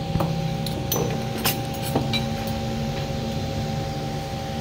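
A few light clinks of cutlery against plates and dishes, about four in the first two seconds, over a steady hum.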